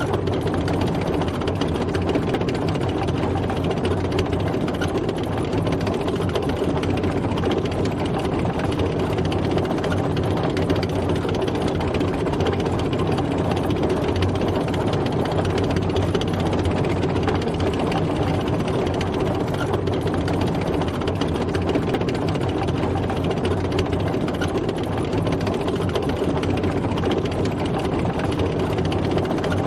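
Tank driving, its engine running steadily with the mechanical clatter of its running gear, unchanging throughout.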